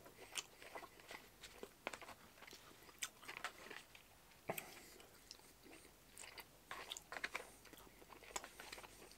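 Faint chewing of food, with scattered short clicks and light taps of wooden chopsticks working in a plastic bento tray.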